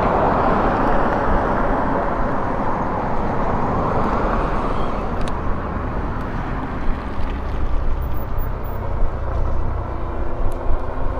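Steady low wind rumble and road noise from a moving e-bike, with a louder rush of passing traffic over the first few seconds that fades about halfway through.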